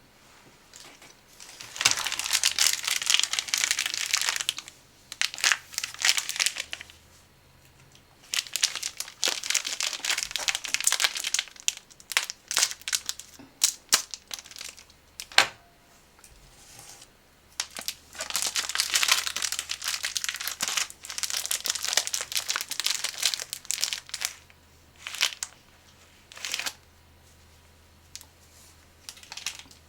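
Crinkling of snack packaging being handled and opened, in repeated bursts of a few seconds with short pauses between, and a few sharp clicks in the middle.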